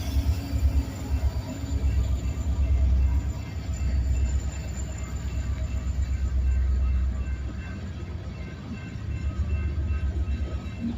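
Slow Union Pacific local freight train moving past, a low, uneven rumble that swells and fades.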